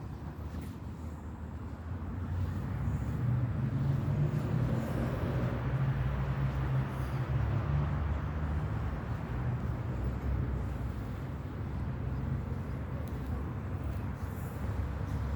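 Steady low outdoor rumble, growing louder about two seconds in and then holding.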